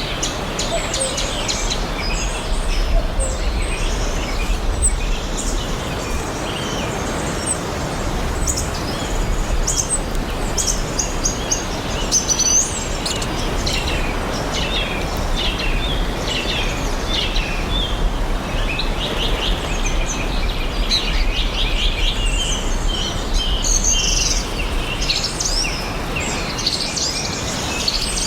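Several birds chirping and singing at once in a forest, short rapid chirps and trills overlapping throughout, over a steady background hiss and low rumble.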